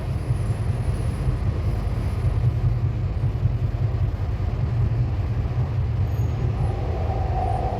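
Sydney Metro driverless train running along the line, a steady low rumble of wheels and running gear. A steady mid-pitched hum comes in about a second before the end.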